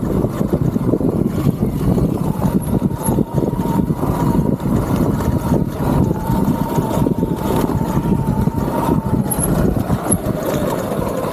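Electric dirt bike riding over a rough trail: a steady rumble of wind and bumps on the microphone, with a faint electric motor whine that wavers in pitch, coming in about two seconds in and dropping away near the end.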